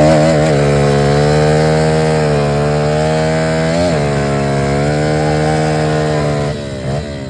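Pit bike's small single-cylinder engine held at high revs to clear it out, a loud steady note that dips briefly about four seconds in and drops away near the end.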